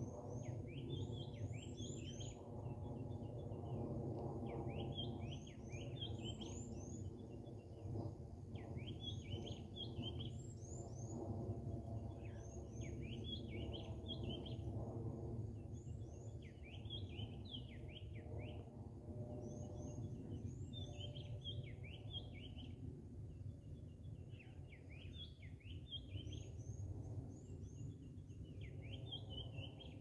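A songbird in the trees sings a short phrase of quick, rising and falling whistled notes, repeating it about every two seconds. Underneath runs a steady low rumble of background noise.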